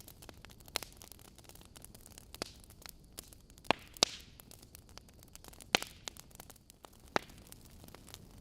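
Burning logs in a fireplace crackling: irregular sharp pops over a soft steady hiss, with the loudest pops a little past the middle and a brief hiss around the middle.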